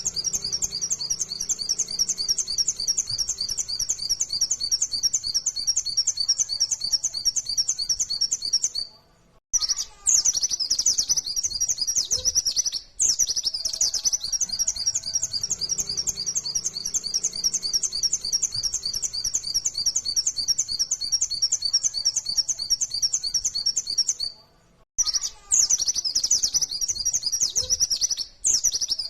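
White-eye (pleci, Zosterops) singing a fast, unbroken stream of high chirping notes in the rapid 'nembak' (shooting) style used as a song lure for caged white-eyes. The stream breaks off a few times for under a second.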